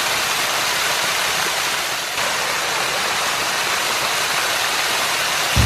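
Waterfall: a steady, loud rush of falling water. Right at the end it cuts suddenly to a low vehicle engine hum.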